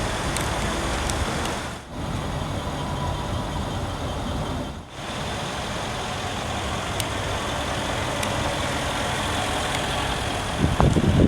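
Mercedes-Benz ML 63 AMG (W166) twin-turbo V8 running, a steady dense engine and exhaust sound that breaks off briefly twice. Near the end it gets louder in a short pulsing burst.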